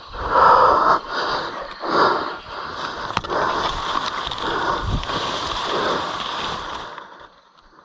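Irregular splashing and sloshing of water as someone moves through shallow floodwater, in uneven surges that die away near the end.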